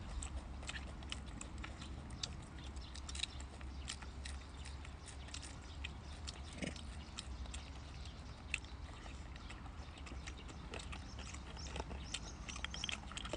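Monkeys chewing and smacking while they eat, with many small scattered clicks and taps over a steady low hum.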